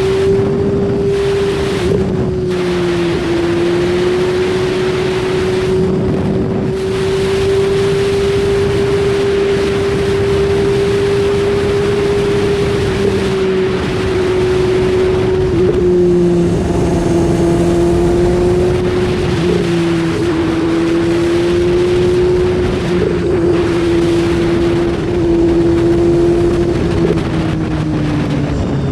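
BMW S1000RR's inline-four engine running at steady, fairly high revs, with a dense rush of wind over the helmet-mounted action camera. The engine's pitch wavers slightly and eases down a little near the end.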